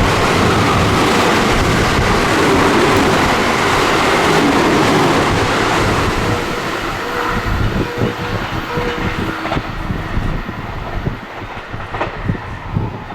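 Train passing through a station at speed without stopping: loud rushing rail noise with wheels clattering over the rail joints, fading away after about six seconds.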